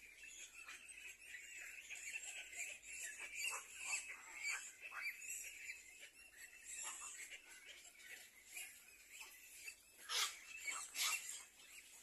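Faint bird chirps and twitters throughout, with two louder calls about ten seconds in.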